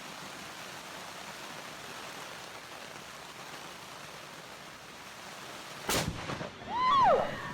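Steady hiss of rain, then about six seconds in a sharp crack, followed by a loud cry from a person, rising and then falling in pitch.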